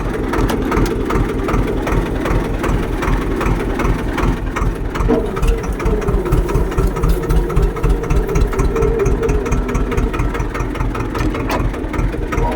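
Tractor engine running with a steady, low, pulsing throb.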